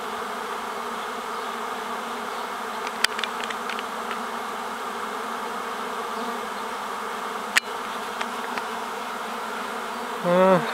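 Honeybee swarm buzzing: a steady hum of a mass of bees in flight as the colony swarms from the hive. A couple of sharp clicks, and a brief, louder buzz near the end.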